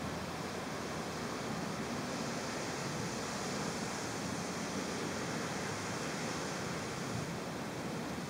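Heavy rain falling in a steady hiss during a thunderstorm, the hiss growing stronger from about two seconds in until shortly before the end.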